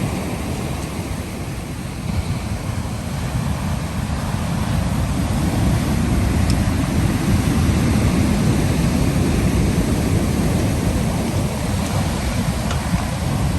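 Pacific Ocean surf washing in, a continuous rush that swells gently, with wind rumbling on the microphone.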